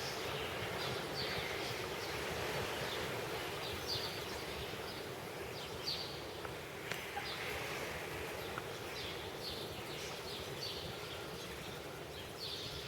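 Birds chirping, short high calls coming every second or so over a steady background hiss.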